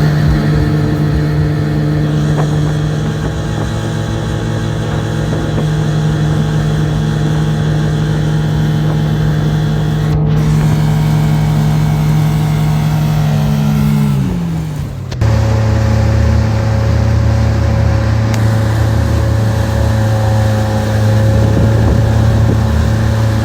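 Yamaha 115 V-MAX SHO outboard motor running at a steady high pitch, then easing off with the pitch falling about fourteen seconds in, and settling to a steady, lower tone about a second later.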